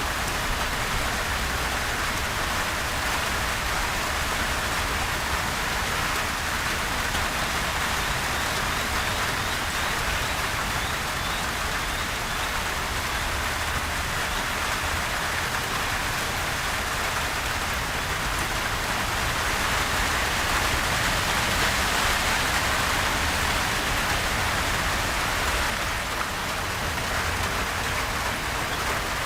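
Steady gentle rain: a continuous hiss of many drops falling on surfaces, growing slightly louder about two-thirds of the way through.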